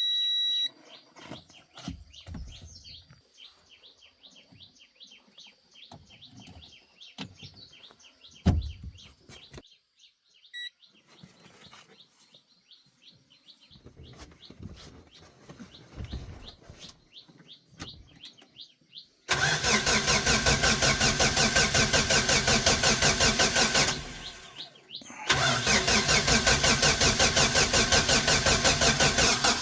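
A short electronic beep, then a quiet stretch with faint chirping and one knock. About two-thirds of the way in, the used car's engine is cranked and run with a quick, even pulse. It cuts out for about a second and then starts again.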